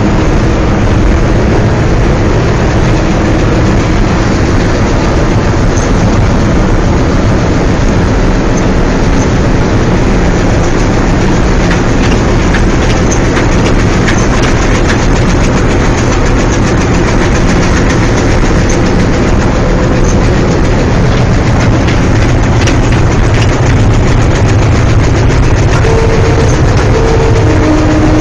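Indian Railways diesel locomotive heard from inside its cab while running: loud, steady engine and running noise with scattered wheel-on-rail clicks.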